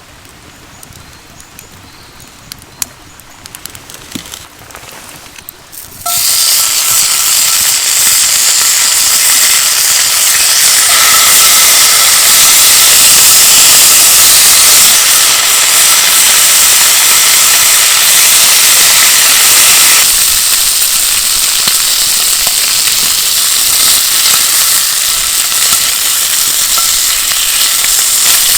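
Bacon and eggs frying in a hot pan over a campfire: after a few faint crackles, a loud sizzle starts suddenly about six seconds in as the food goes into the pan, and keeps on steadily, easing a little about twenty seconds in.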